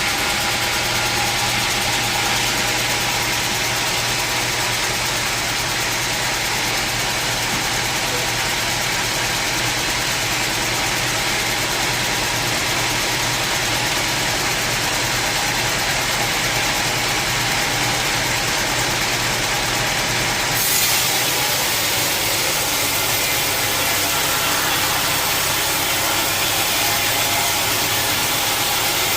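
Sawmill saw and its motor running steadily, a constant hum under a dense hiss. About 21 s in the sound shifts slightly, with a brief rise in level and the highest hiss dropping away.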